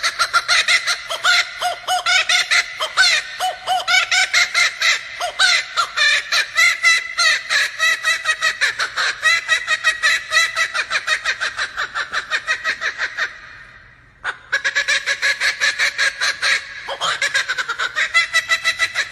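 Laughing kookaburra giving its laughing call: a long run of rapid, repeated cackling notes that breaks off briefly about two-thirds through, then starts up again.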